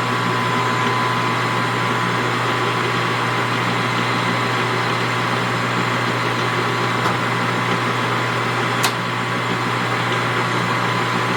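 Metal lathe running with no cut, spindle turning in low range to circulate its oil: a steady motor and gear hum with a thin, even whine. A single faint click about nine seconds in.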